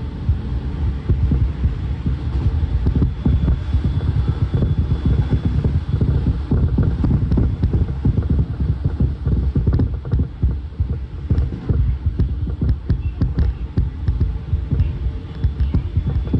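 Interior running sound of a Toei 10-300 series electric train car at speed: a steady low rumble of wheels on rail with frequent short knocks and rattles.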